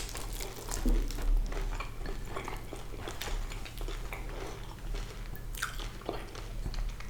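Close-miked chewing and biting of crispy fried sea bass: wet mouth sounds with short crunchy crackles, a little louder about a second in.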